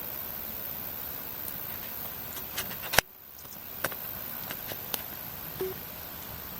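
Wood campfire crackling, scattered sharp pops over a steady hiss. A loud click about halfway through, after which the hiss drops away for a moment and builds back.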